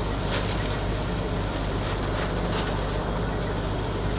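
A steady low engine hum runs throughout. Over it come a few short scraping and brushing noises, from clearing loose beans and chaff out of a combine.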